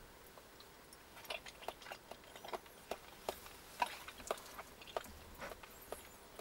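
A person chewing food close to the microphone: irregular crisp clicks, a few each second, starting about a second in.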